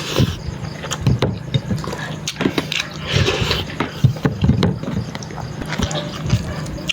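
Close-up chewing and mouth sounds of a person eating, with irregular wet smacks and clicks.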